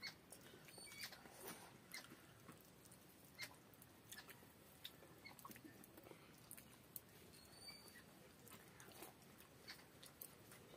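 Faint chewing and mouth smacks, with scattered small clicks, from rice eaten by hand off a banana leaf.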